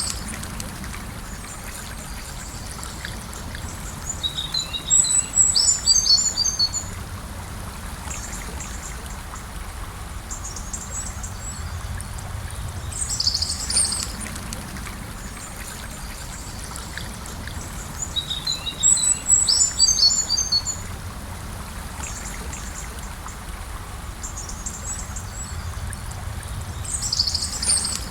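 Gentle river flowing, a steady rush of water. A bird sings a quick run of high chirps over it four times: about five seconds in, near the middle, around twenty seconds in and near the end.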